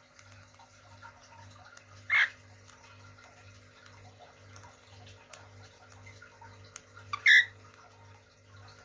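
Cage birds calling: two loud, short calls about five seconds apart over faint scattered chirps, with a low pulsing hum underneath.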